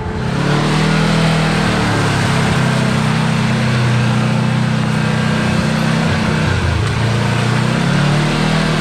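Side-by-side UTV engine running hard under throttle, with a steady rush of tyre and wind noise. The engine pitch dips briefly about two-thirds of the way through, then climbs again.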